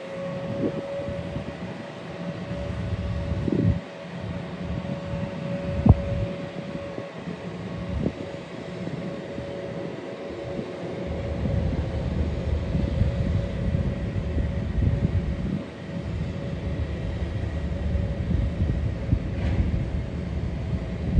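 Jet airliner engines rumbling, growing louder about halfway through, with wind gusting on the microphone.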